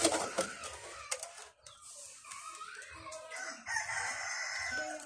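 A rooster crowing, one long call about four seconds in, after a brief noisy burst at the start.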